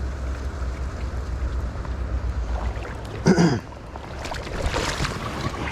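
Steady low rumble of flowing river water with wind on the microphone. A short voice sound comes a little past three seconds in, then a brief burst of hiss about a second later.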